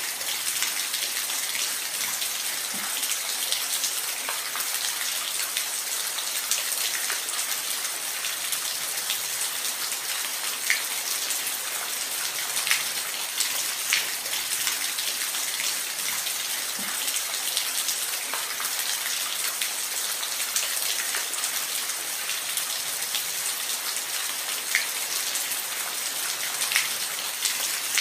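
Waterfall: a steady rush of falling water with scattered brief splashes and drips.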